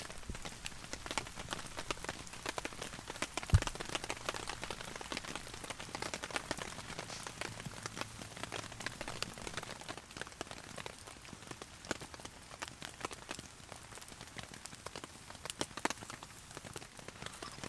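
Heavy rain falling on a tarp, a dense spray of separate drop hits over a steady hiss. One short low thump about three and a half seconds in.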